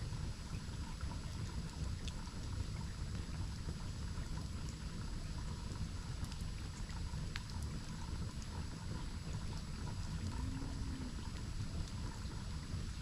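Steady low rush of a waterfall, with a few faint sharp ticks scattered through it.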